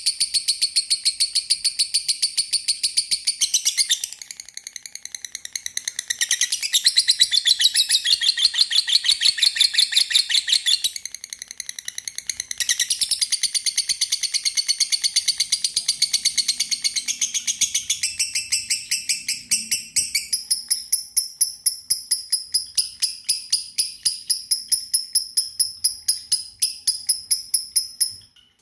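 Lovebirds chirping in a rapid, steady run of high, sharp chirps, several a second, with a quieter stretch about four seconds in.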